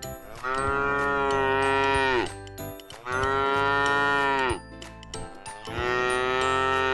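A cow mooing three times, each a long call that holds steady and then drops in pitch at the end.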